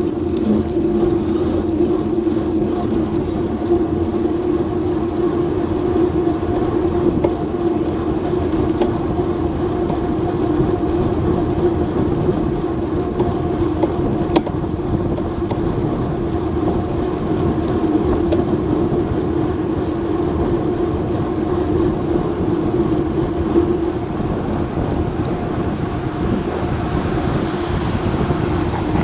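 Wind rushing over an action camera's microphone on a fast bicycle descent, a steady roar with a constant hum underneath and one brief click about halfway through.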